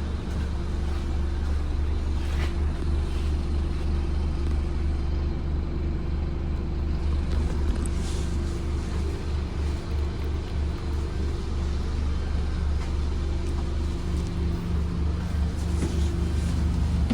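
Scania N230UD OmniCity double-decker bus's five-cylinder diesel engine running steadily as a low drone, with a few faint high squeaks from the bus.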